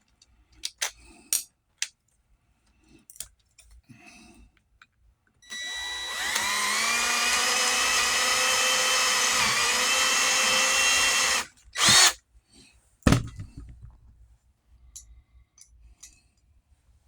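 Electric drill spinning up and running steadily for about six seconds, opening up holes to take larger size 8 fittings. Scattered light clicks come before it, and two sharp knocks about a second apart follow just after it stops.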